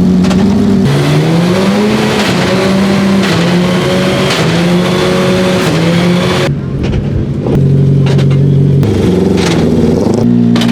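Race car engines idling loudly, the pitch rising and falling with light throttle, with several sharp clicks from the gearbox as it is shifted into first gear. The sound changes abruptly about six and a half seconds in.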